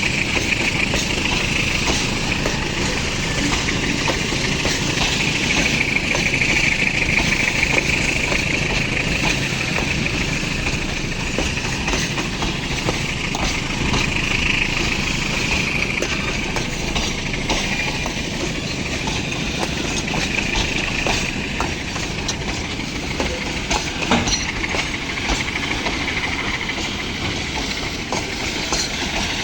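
Loaded iron-ore freight train rolling by: a steady, loud rumble of wheels on rail, with scattered clicks throughout.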